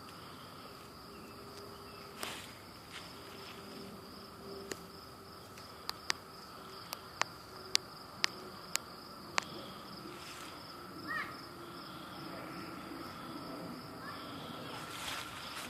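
Faint, steady insect chorus: two even drones, one high and one higher still, running throughout. Around the middle, a run of about eight short, sharp clicks.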